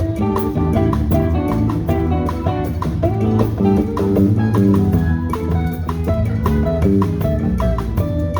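A band playing an instrumental passage, with guitar and bass over a steady beat.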